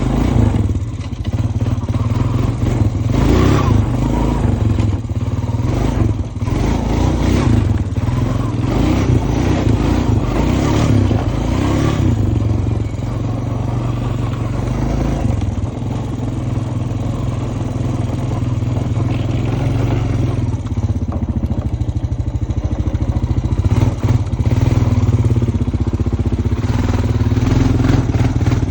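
Honda Foreman ES four-wheeler's single-cylinder engine running under way, with the rattle of the machine over rough ground.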